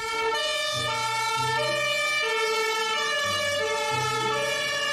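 Toy ambulance's electronic sound module playing a buzzy siren tone that steps between several pitches about every half second.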